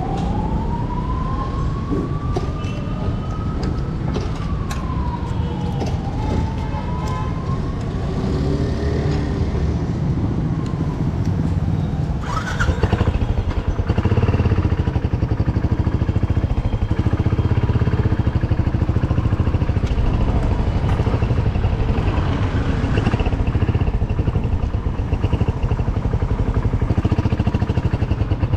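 Motorcycle engine running steadily under way, getting louder about halfway through. Over it, for the first ten seconds or so, a siren-like wail rises and falls twice.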